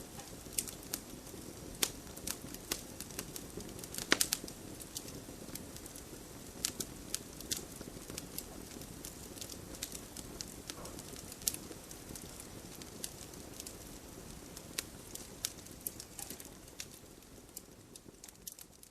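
Campfire burning: a steady low rush of flames with frequent sharp crackles and pops of burning wood, the loudest cluster of pops about four seconds in. The sound fades down near the end.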